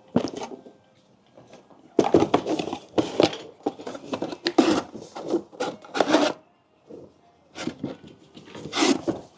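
Hard objects being moved and set down, a run of knocks, scrapes and clatter starting about two seconds in, a short pause, then more clatter near the end.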